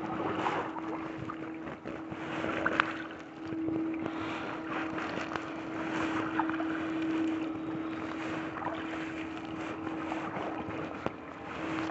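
Kayak paddle strokes dipping and splashing in lake water, in a loose rhythm about every two seconds, with wind buffeting the microphone. A steady low hum runs underneath.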